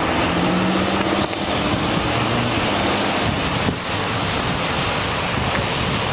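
Wind rushing over the microphone of a camera on a moving bicycle, a loud steady rushing noise, with a low steady vehicle hum in the first second or so.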